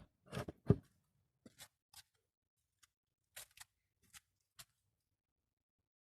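Push-to-open fuel filler door on a BMW M140i being pressed and clicking open: a few sharp clicks in the first second, then a scattering of fainter clicks and taps.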